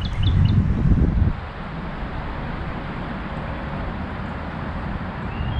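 Wind buffeting the microphone as a loud low rumble for about the first second, then a steady outdoor hiss. A small bird chirps a quick run of short notes that stops about half a second in.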